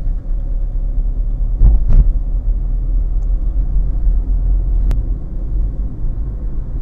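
A car being driven, heard from inside the cabin: a steady low engine and road rumble. There is a brief louder burst about two seconds in and a single sharp click near the end.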